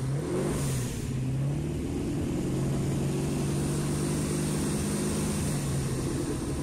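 V8 engine of a Marcos race car, revved with a quick blip in the first second, then running at a steady engine speed.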